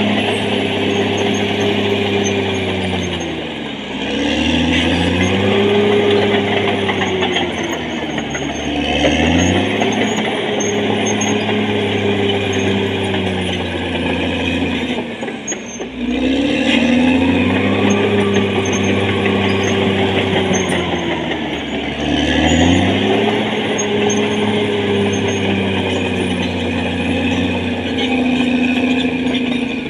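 Caterpillar D6R XL bulldozer's diesel engine running hard. Its pitch sags and climbs back again four times, with a faint high whine above it.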